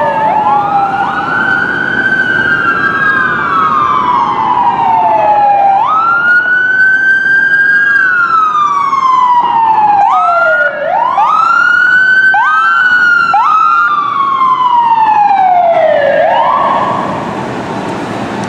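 Wailing sirens of a fire department rescue ambulance, fire engine and police car responding together. Two or more wails overlap, each jumping up quickly and then sliding slowly down. Near the end the sirens stop and a steady roar of passing vehicles is left.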